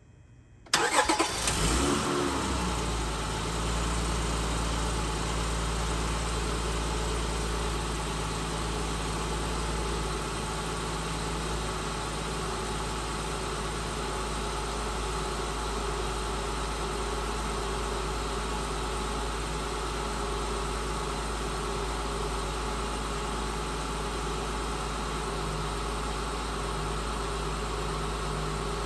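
Honda Odyssey's 3.5-litre V6 cold-started: it cranks and catches suddenly about a second in, runs louder at a raised fast idle for a couple of seconds, then settles into a steady cold idle that eases slightly lower about ten seconds in.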